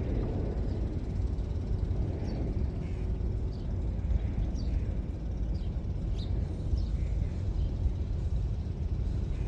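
Outdoor ambience: a steady low rumble with short, high bird calls repeating roughly once a second.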